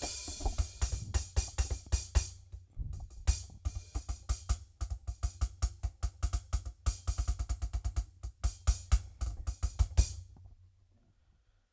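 Hi-hat played as a fast pattern on an electronic drum kit, sounding the Roland TD-27 module's Session HH sample, with crisp strokes over low thumps. The playing stops about ten seconds in.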